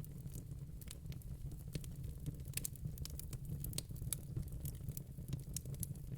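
Fire crackling: irregular snaps and pops, several a second, over a steady low rumble.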